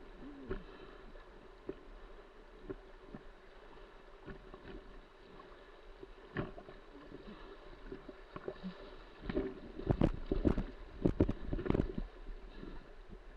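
River rapids rushing around a swimmer, with scattered splashes and knocks. A burst of loud splashes and knocks comes about nine seconds in and lasts some three seconds.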